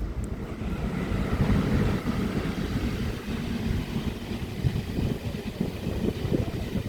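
A train passing, a steady rumble that swells up about a second in, with wind buffeting the microphone.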